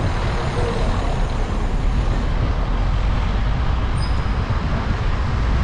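Steady road traffic noise with a deep, continuous rumble.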